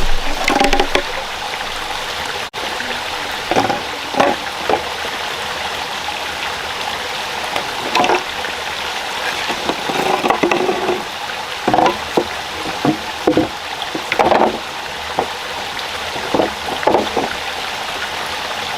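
A rocky stream rushing steadily, with about a dozen short, irregular knocks and clatters over it.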